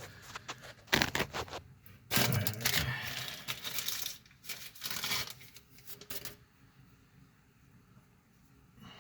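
Handling noises: rustling and crinkling with a few sharp clicks and knocks, in bursts over the first six seconds and then quieter.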